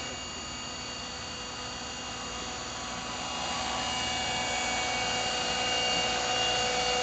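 Electric Compass Atom 500 RC helicopter in flight: steady whine of its brushless motor, gears and rotor blades, growing louder about halfway through.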